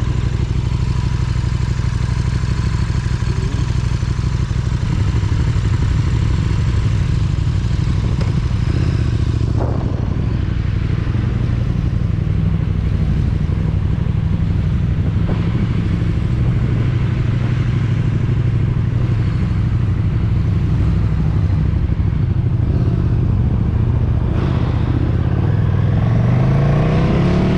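KTM 1290 Super Duke R's V-twin engine running steadily at low revs, then revving up with a rising pitch near the end.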